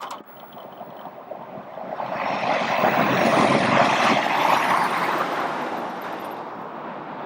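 A vehicle passing on the road: its tyre and engine noise swells over a couple of seconds, peaks mid-way and fades away.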